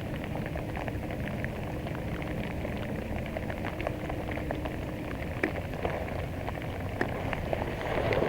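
Steady rain falling on water and the boat, a dense hiss with many small drop ticks. A faint low hum stops about five seconds in.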